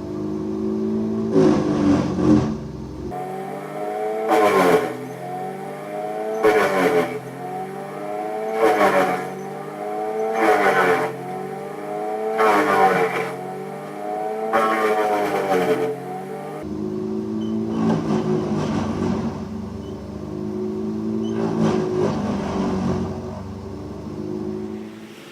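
Small petrol engine of tree-removal equipment running, surging up and dipping again about every two seconds through the middle section, with steadier running before and after.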